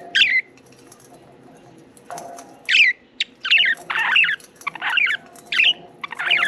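Budgerigars chirping: one short chirp right at the start, then after a pause a rapid run of about seven more chirps, several sliding down in pitch.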